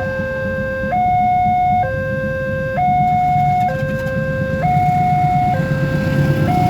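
Level-crossing warning alarm sounding a repeating two-tone signal, high and low notes alternating about once a second. A low rumble builds underneath toward the end.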